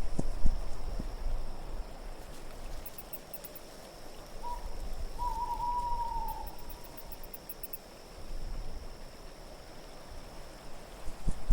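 Owl hooting: a short hoot, then a longer, slightly falling hoot, over a steady wind hiss. Soft low thumps sound in the first second, and faint high tinkling comes twice.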